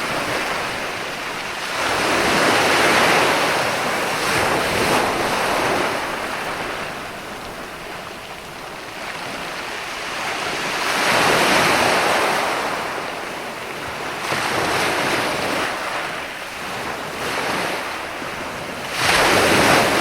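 Mediterranean sea waves breaking and washing up onto the beach. The rush swells and ebbs every few seconds, with the biggest surges about two seconds in, around eleven seconds in, and again near the end.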